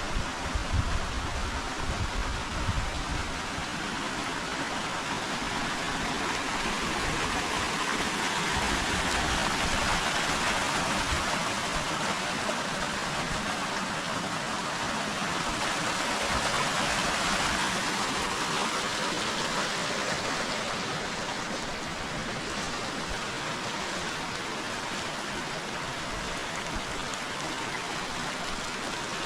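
Forest river water rushing steadily, swelling louder partway through and then easing back.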